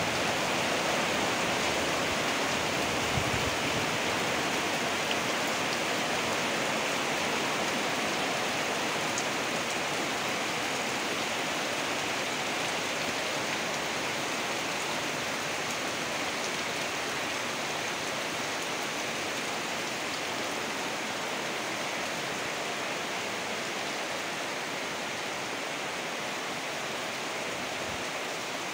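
Heavy rain pouring down in a steady, even hiss that eases very slightly toward the end.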